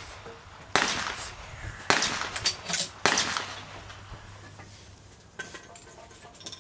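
Three gunshots about a second apart, each followed by a short echoing tail, with a few small clicks later on.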